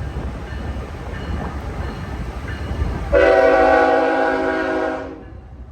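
Train rumbling past with a steady low rumble, then its horn sounds a loud multi-tone blast about three seconds in, holding for about two seconds before fading away.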